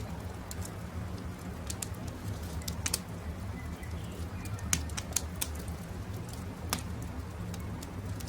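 Campfire crackling with irregular sharp pops, the loudest a little under halfway through and about two-thirds of the way in, over a steady low rumble. A dove coos softly in the background.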